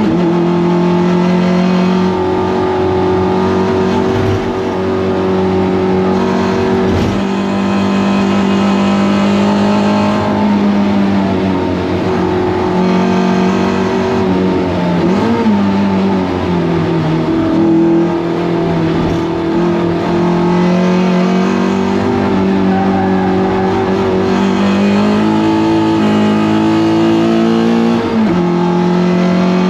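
Toyota MR2 race car engine heard from inside the car, running hard at fairly steady revs. The revs drop and climb back about halfway through and again near the end, as it brakes and picks up through a corner.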